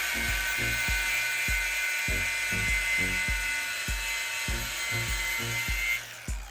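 A small high-speed power tool running steadily with a high whine, then stopping about six seconds in, over background music with a steady beat.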